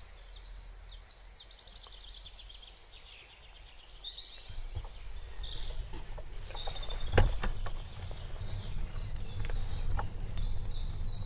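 Songbirds singing, repeating short quick trilled phrases. From about four seconds in, a low rumble of wind and bicycle riding grows underneath, with a single sharp knock about seven seconds in.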